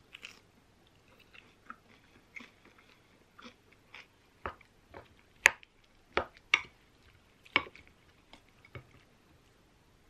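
Close-up chewing of crispy breaded fried shrimp: a run of irregular crisp crunches, loudest in the middle.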